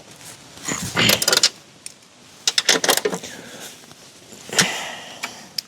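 Hand tools clicking and clinking on metal in short bursts about a second, three seconds and four and a half seconds in, as bolts are tightened by hand on a car's front strut assembly.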